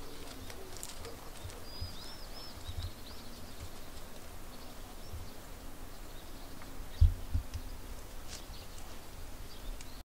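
A few short bird chirps over faint outdoor background noise, with one brief low thump about seven seconds in.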